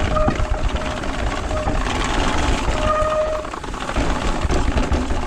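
Mountain bike riding fast down a dry, dusty trail: a continuous rough rattle and rumble of tyres and bike on loose dirt, with short steady squeals twice, once near the start and again about three seconds in.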